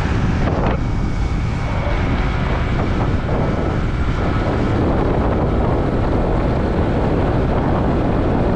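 Wind rushing over the microphone of a moving scooter, with the scooter's engine running underneath.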